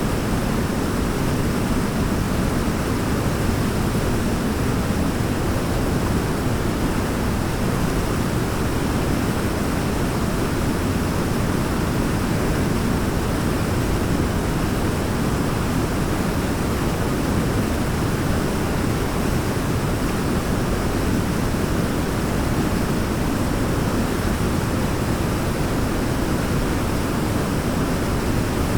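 Forest waterfall rushing: a steady, even roar of falling water, heaviest in the low range, with no change or separate sounds.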